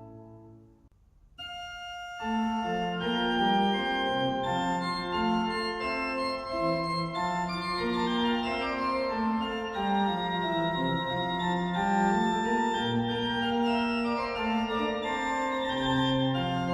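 Sampled pipe organ of the Mascioni organ at Giubiasco, played through Hauptwerk. A held chord's reverberant tail dies away, and after a brief pause a new passage begins about a second and a half in. It opens with one held high note, soon joined by brisk running notes in several voices.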